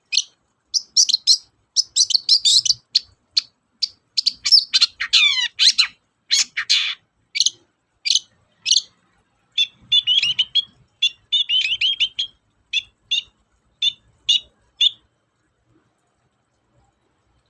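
Long-tailed shrike (cendet) singing a fast, varied song of short, harsh chattering notes, with a burst of falling sweeps about five seconds in. A run of short notes comes from about ten seconds, and the song stops about fifteen seconds in.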